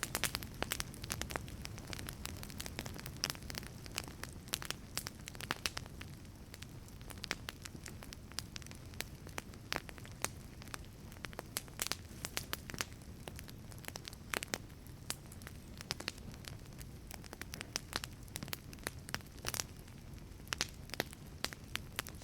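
Wood fire burning in a wood-fired pizza oven: irregular sharp crackles and pops over a steady low rumble of flame.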